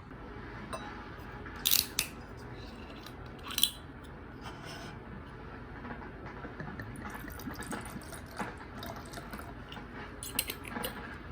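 A few sharp clinks or clicks, two close together near two seconds in and another about a second and a half later, then lighter ticks over a steady low background noise.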